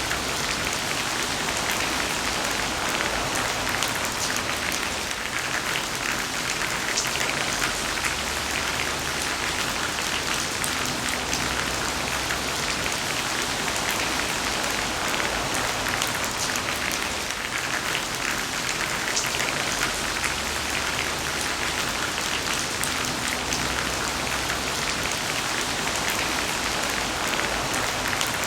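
Heavy rain falling steadily, a dense hiss of drops with fine ticks of individual drops hitting a surface.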